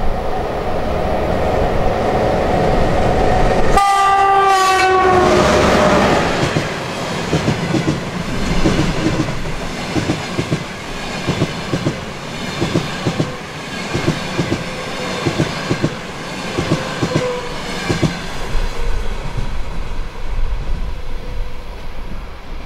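EP1M electric locomotive with a passenger train running past at speed. About four seconds in it gives a short horn blast that drops in pitch as it passes, then the coaches' wheels clatter in a steady clickety-clack over the rail joints.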